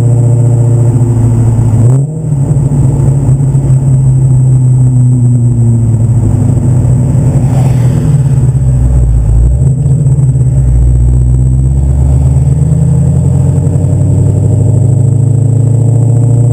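1995 Mustang Cobra 5.0 V8 exhaust, with long-tube headers, a catted X-pipe and a Borla Stinger catback, running loud. It idles steadily, revs up sharply about two seconds in, goes up and down in pitch for several seconds, then settles back to a steady idle near the end.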